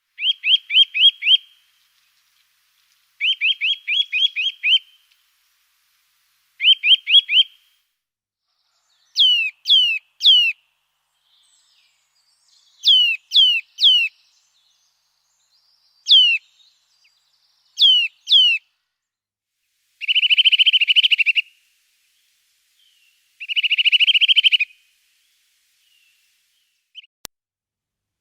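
Small songbird singing in separate short phrases with silence between them. First come quick trills of falling notes, then groups of two or three sharp, down-slurred whistles, and near the end two longer buzzy trills.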